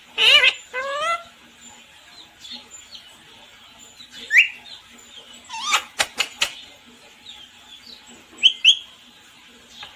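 Pet parrot giving short, shrill squawks and calls that slide up and down in pitch, in bursts several times over, with a quick run of sharp clicks about six seconds in.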